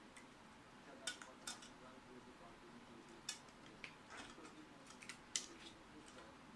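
Faint, scattered clicks and light taps of hands working on a PC power supply, small hard parts knocking together, with the loudest taps about three and five seconds in.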